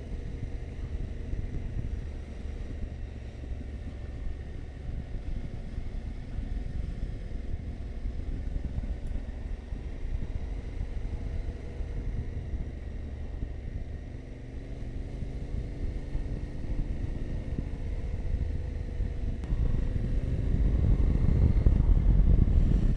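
Yamaha Ténéré 700's parallel-twin engine running as the motorcycle rides along, with wind and road noise. The low rumble grows louder over the last few seconds.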